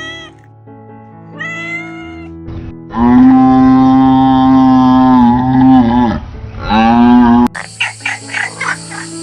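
Domestic cat meowing twice over background music, then a long, loud animal call lasting about three seconds and a shorter one after it. About seven and a half seconds in, an abrupt cut to a fast series of frog croaks.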